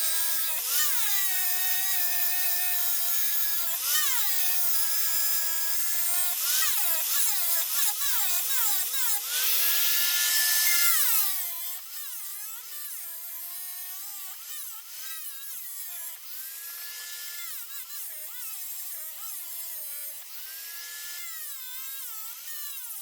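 Electric grinder grinding down a weld lump on a steel mower-deck bracket, its whine dipping and recovering as it is pressed into the metal. The harsh grinding stops about 11 seconds in, and the grinder runs on more lightly with the pitch still dipping.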